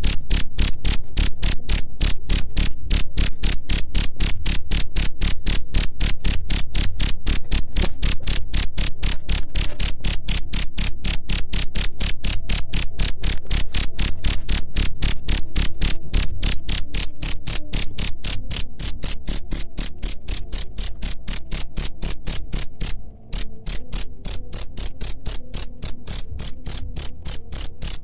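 Cricket chirping in a fast, even rhythm of about three to four high-pitched chirps a second, with a brief drop-out about five seconds before the end.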